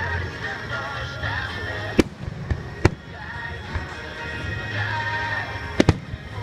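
Fireworks bursting in sharp bangs: one about two seconds in, another near three seconds, and a quick pair near the end, heard over music playing.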